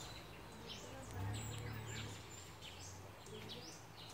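Small birds chirping over and over, short high calls that sweep downward, with a low steady hum beneath that swells about a second in.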